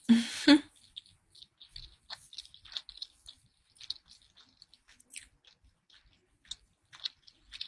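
A person chewing food close to the microphone: many small, irregular wet clicks and crackles. It opens with a brief, louder burst of noise in the first half second.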